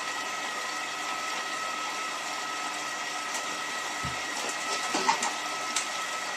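Hotpoint 9534A washing machine running at the start of its cycle: a steady hum and hiss with a high whine. A dull thump comes about four seconds in, and a few sharp clicks follow around five seconds.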